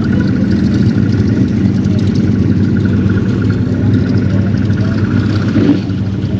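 A car engine running steadily at idle, a low even rumble with a faint steady whine above it.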